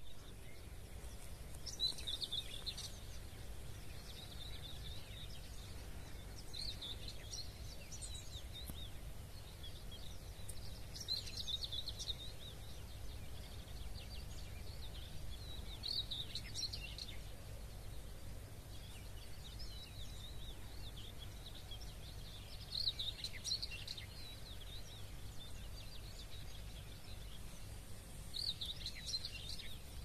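A songbird singing short, high phrases every few seconds, over a steady low rumble.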